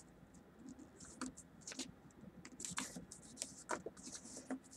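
A sheet of paper being folded and creased by hand: faint, irregular crinkles, rustles and small ticks as the paper is pressed and handled.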